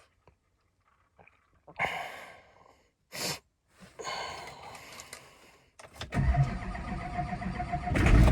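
Cold start of a Chevrolet Duramax 6.6-litre V8 turbo-diesel: a few soft knocks and rustles first, then the engine cranks from about six seconds in and catches, running loud just before the end.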